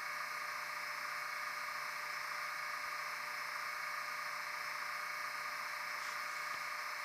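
Sound decoder in a Bachmann Class 20 model diesel locomotive playing a steady engine sound through its small on-board speaker, over a steady hiss. A low hum in the sound drops out near the end.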